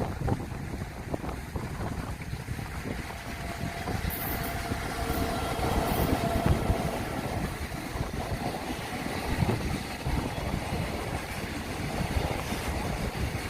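Freight train passing at speed: wagon wheels rumbling and clattering steadily along the track. A faint steady whine rises over the rumble from about four seconds in for a few seconds.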